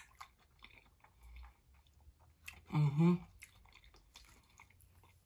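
Close-up mouth sounds of a person chewing a mouthful of green beans with wet little clicks and squishes, with a short hummed "mm" about three seconds in.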